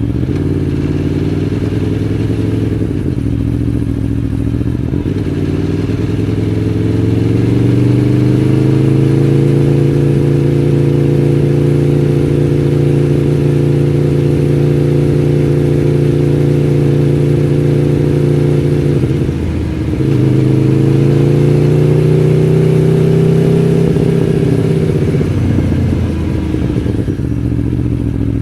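Aprilia Tuono V4 1100 Factory's 65-degree V4 engine running under way: its pitch rises and holds steady, drops briefly at a gear change about two-thirds of the way in, rises again, then falls away as the throttle is closed near the end.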